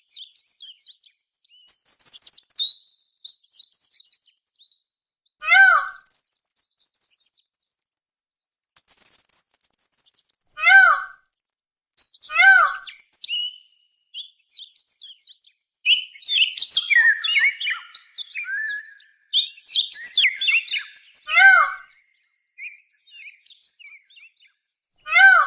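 Several birds chirping and twittering, with one louder, sharper call repeated four times at a few-second intervals and a burst of busier chattering in the latter half.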